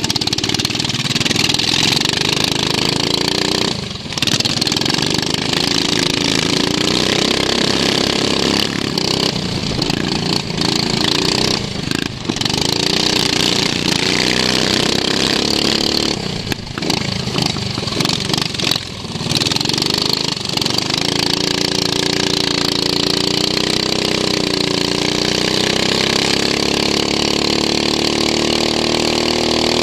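Racing lawn mower engine heard onboard at speed, its pitch rising and falling as the driver accelerates. It drops off briefly a few times, as the throttle is lifted, and holds a steadier pitch for the last several seconds.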